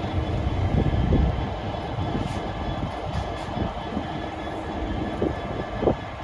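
Electric passenger train running past on the main line: a steady rumble of wheels on the rails, loudest about a second in.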